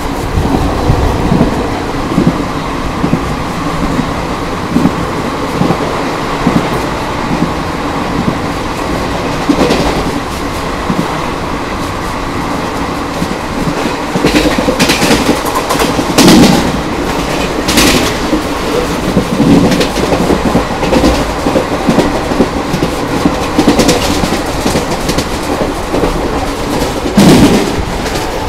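Express passenger train running on the track: a steady rumble with the clickety-clack of wheels over rail joints. The knocks come more often and sharper in the second half, with a few louder ones.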